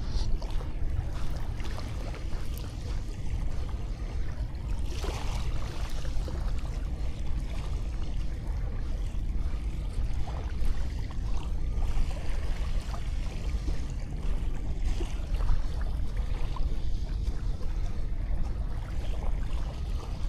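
Sea waves washing on a sandy beach, with a steady low rumble underneath and a brief swell of hissing wash about five seconds in.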